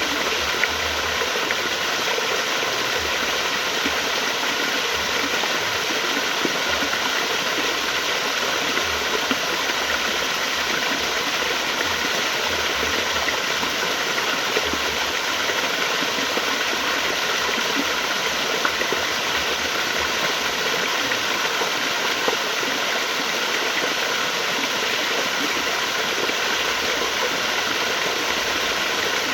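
Flowing water, a steady, even rush that doesn't let up.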